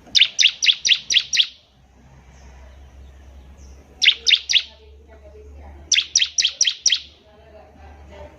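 Bar-winged prinia (ciblek) singing: three bursts of rapid, repeated sharp chirps, about five a second, with short pauses between the bursts.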